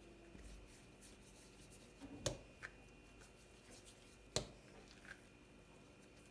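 Quiet handling noises: two sharp knocks about two seconds apart, with a few lighter clicks between and after them.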